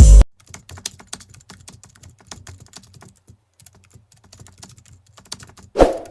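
Rapid, irregular light clicking, like keyboard typing, with one short louder hit near the end.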